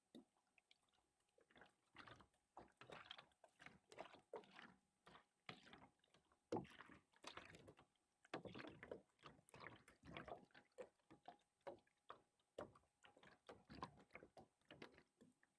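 Water sloshing and splashing faintly in short, irregular bursts, one after another.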